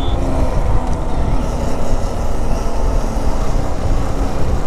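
Lifan KP motorcycle engine running steadily while riding at road speed, mixed with wind noise on the microphone.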